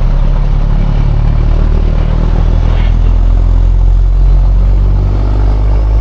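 Semi-truck's heavy diesel engine running low and steady, its pitch shifting slightly as the truck moves at low speed.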